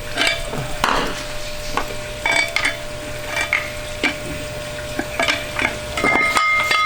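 Metal tools and parts clinking and knocking at irregular intervals over a steady hum and hiss of shop noise; near the end a struck metal part rings briefly.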